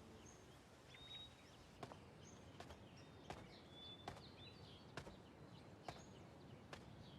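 Faint outdoor ambience: small birds chirping in short high calls, with soft footsteps at a walking pace, about one step every second.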